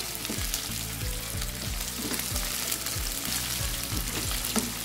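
Diced potatoes and sliced onions sizzling in hot oil in a non-stick frying pan, with a steady hiss, while a wooden spatula stirs and scrapes them around the pan.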